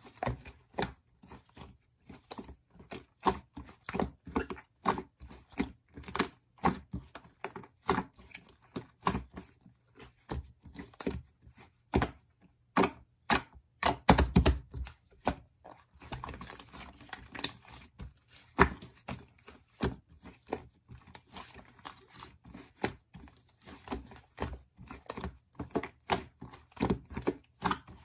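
Close-up handling sounds: irregular taps, clicks and crinkling of small objects, with a louder burst of rustling about halfway through.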